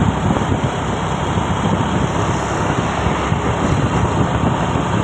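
Truck on the move: steady engine and road noise at an even level.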